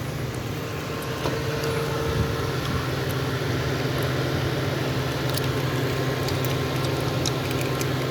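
Honda Civic's four-cylinder engine idling steadily, growing slightly louder over the first couple of seconds.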